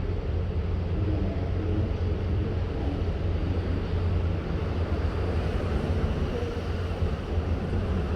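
Steady low drone under a rushing noise on board a ship at sea, most likely the ship's engines together with wind.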